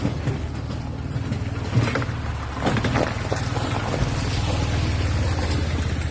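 An engine running steadily, with a few brief louder knocks about two and three seconds in.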